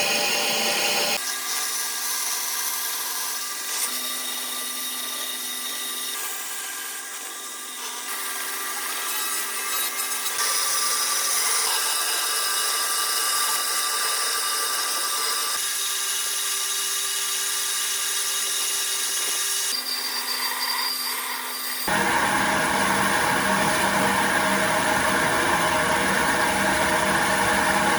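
Electric power tools working wood: a steady motor whine with a rough rasping of the tool against the wood, shifting in pitch and texture at several abrupt cuts and loudest over the last few seconds.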